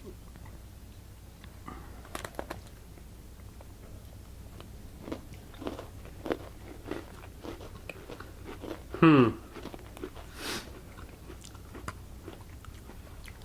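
Close-up chewing and biting of Rocky Road Trip Oreo cookies, with small crunches and mouth noises scattered throughout. A brief vocal sound with a falling pitch comes about nine seconds in.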